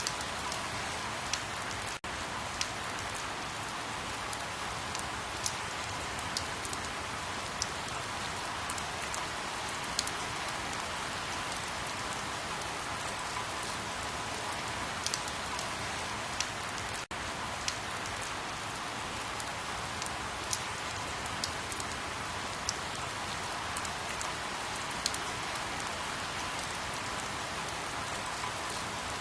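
Steady rain falling, an even hiss with scattered sharp drop ticks. It cuts out for an instant twice, about 2 seconds and 17 seconds in.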